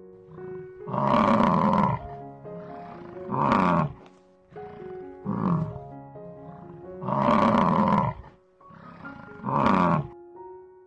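A large animal gives five loud, rough roaring calls, each lasting half a second to a second and coming every two seconds or so, some falling in pitch, over soft background music of sustained tones.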